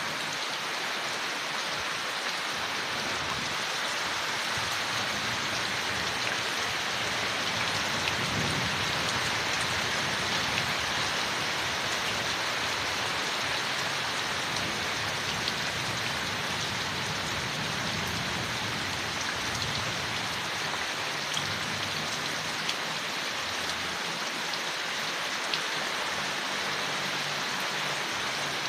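Steady rain falling on forest leaves, an even hiss with now and then a single drop ticking out. A low rumble swells and fades in the background.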